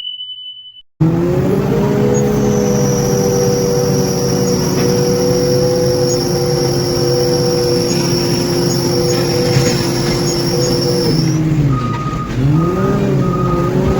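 Heavy construction machine's diesel engine running steadily under load, with a thin high whine over it. After a short high beep at the start, the engine note drops and climbs back near the end as the load changes, and a short repeating beep starts up.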